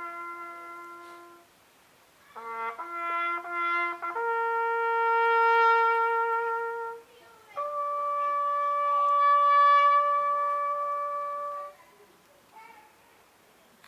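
A lone bugle sounding a call: long held notes climbing the bugle's few steps, with a quick run of short notes in between, ending about twelve seconds in.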